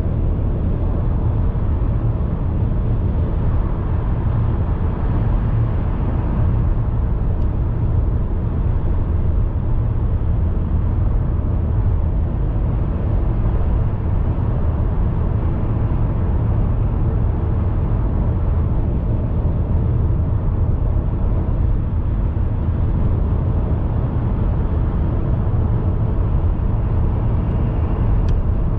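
Car driving at a steady pace: continuous deep rumble of road and engine noise with no change in level.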